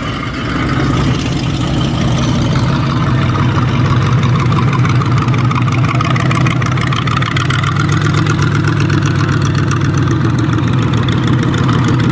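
A car engine idling steadily at close range, with a deep, even hum and no revving.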